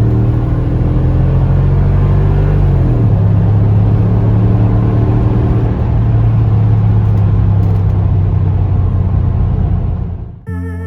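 Mercedes ML55 AMG's 5.4-litre V8 under full-throttle acceleration: the engine note climbs, drops sharply at an upshift about three seconds in, then climbs steadily again. Music cuts in just before the end.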